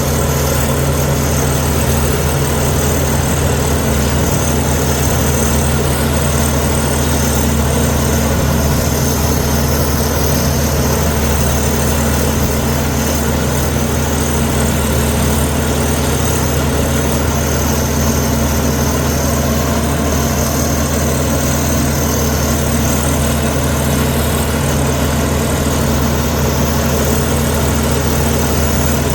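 Komatsu D61EX bulldozer's diesel engine running steadily, a low, even drone that holds at one speed without revving.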